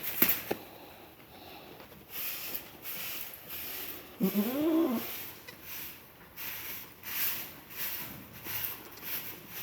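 A newborn goat kid bleats once, about four seconds in: a short call that rises and then falls in pitch. A sharp click comes near the start, and soft rustling swishes repeat throughout.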